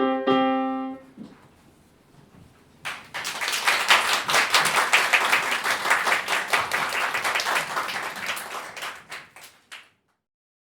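A piano piece ends on a held chord that dies away about a second in. After a short pause an audience claps for about seven seconds, fading near the end before the sound cuts off.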